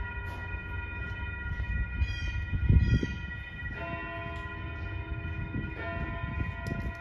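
Steady metallic bell-like ringing tones over the low rumble of a commuter train out of view, with a few louder low thumps about three seconds in.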